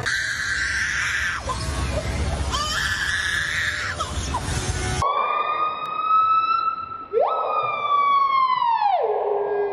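Two different eerie bird calls, one after the other. First a harsh, rough call with short pitch slides. Then, after an abrupt cut, a clear siren-like wail: one long note, then a second that sweeps up sharply and slides slowly down to a low pitch.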